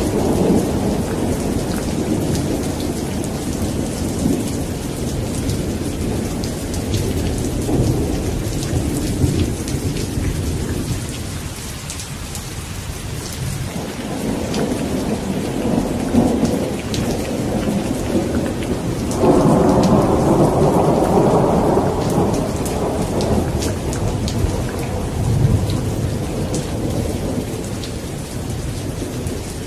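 Steady heavy rain with thunder rumbling through it, swelling to a louder roll about two-thirds of the way in, then dying back.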